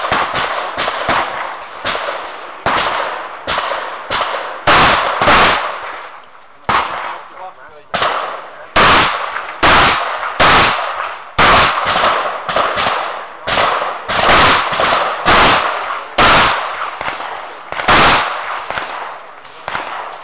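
A string of shotgun shots in quick succession, each followed by a ringing echo, coming in irregular clusters with a short lull about a third of the way through.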